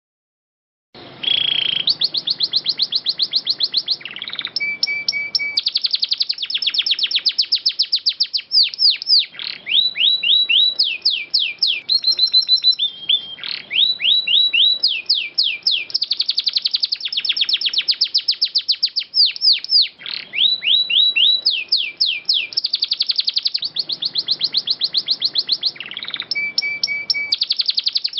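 Domestic canary singing a long, unbroken song of rapid trills and rolls, with fast runs of repeated notes, starting about a second in.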